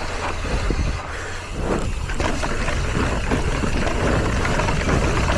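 Wind rushing over the microphone with tyre noise and small rattles from a mountain bike rolling over a rocky trail.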